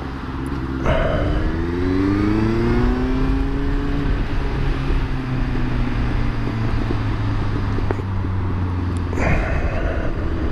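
Yamaha FZ1's inline-four engine accelerating, its pitch climbing for a few seconds and then levelling off into a steady cruise, with wind rushing over the microphone.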